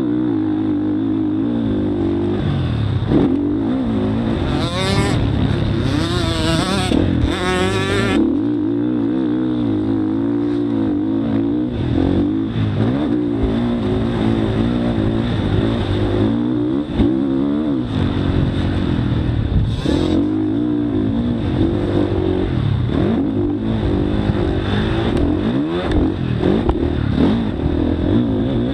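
Motocross bike engine revving and easing off over and over, its pitch rising and falling without a break. About five to eight seconds in, higher, fast-wavering engine noise comes in briefly over it.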